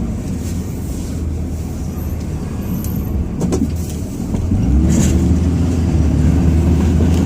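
Ram 2500's Cummins inline-six turbo diesel running under the cab, a steady low drone that gets louder and fuller about four and a half seconds in as the truck pulls harder. A couple of brief sharp clicks sound just before and after the change.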